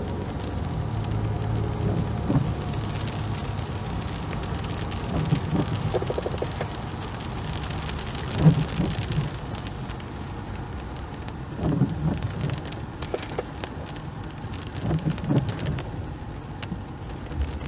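Rain falling on a car's windshield and roof, heard from inside the car. A few short louder sounds stand out over it, the loudest about eight and a half seconds in.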